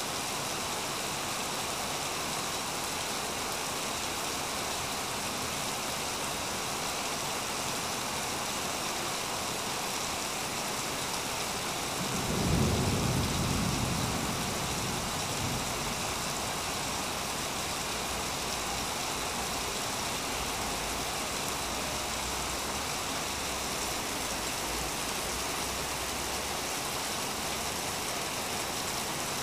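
Steady rain falling, with a low rumble of thunder that starts sharply about twelve seconds in and dies away over three or four seconds.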